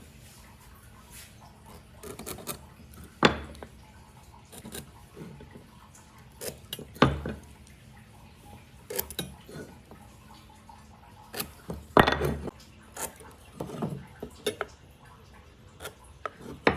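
Scattered knocks and clinks of hard objects being handled and set down, with a few louder thuds about three, seven and twelve seconds in.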